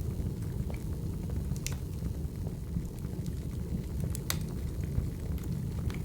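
Crackling wood fire: a steady low rumble of burning logs with sharp pops and crackles every second or so, the loudest about four seconds in.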